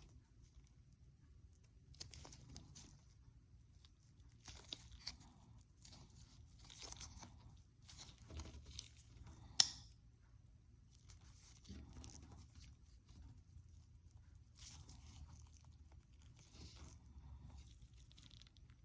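Irregular bursts of crinkling and rustling as packaging is handled and unwrapped, with one sharp click about ten seconds in.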